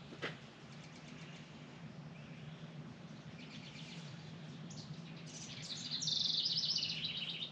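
A songbird singing a rapid, high chirping trill that starts about three seconds in and is loudest near the end, over a steady low hum.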